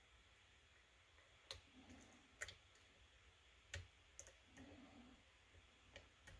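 Faint, scattered clicks of a lock pick and tension wrench working the pins inside a kick cylinder lock, about half a dozen sharp ticks a second or so apart.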